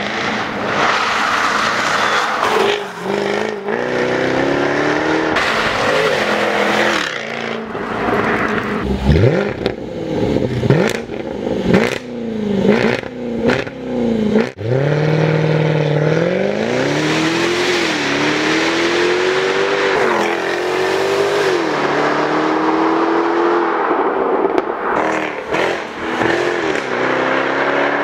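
Jaguar F-Type R's supercharged 5.0-litre V8 driven hard, its revs climbing again and again and dropping sharply at each gear change. A run of sharp cracks comes from the exhaust in the middle, amid quick rises and falls in revs.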